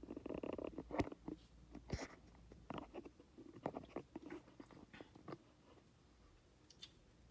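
Close handling noise of a stand or mount being adjusted by hand: a rustling scrape in the first second, two sharp clicks about a second and two seconds in, then scattered lighter clicks and taps that fade toward the end.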